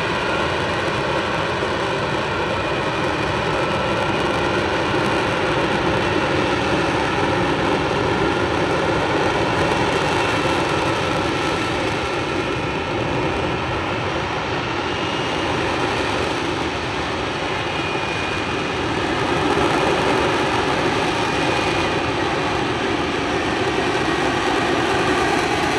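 F-35B Lightning II's jet engine running loud and steady in hover mode, lift fan doors open and main exhaust nozzle rotated down: a dense, even rush of jet noise with a faint high whine on top.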